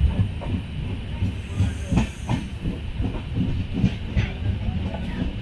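Passenger train running on the track: a steady low rumble and hiss with irregular knocks and clatter from the carriage.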